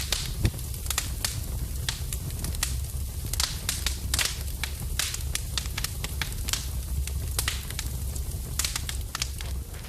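Fire burning in a fireplace, crackling with frequent irregular sharp pops and snaps over a low steady rumble.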